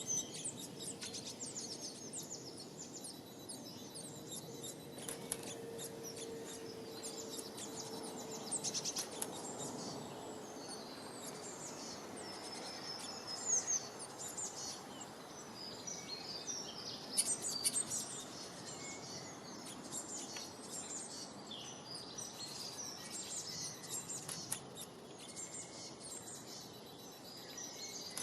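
Small birds chirping busily and overlapping, many short high-pitched chirps throughout, over a steady background hiss.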